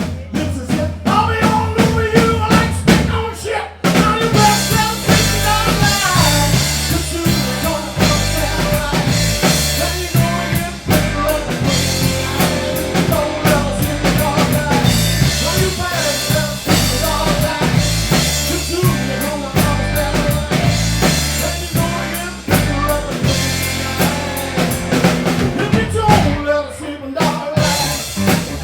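Blues band playing live, with the drum kit driving the beat. The band comes in fuller and louder about four seconds in.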